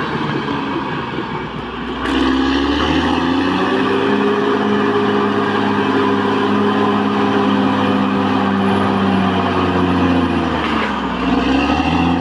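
Caterpillar D6R XL bulldozer's diesel engine working. About two seconds in, its note rises and grows louder, then holds steady; near the end it dips briefly and climbs again.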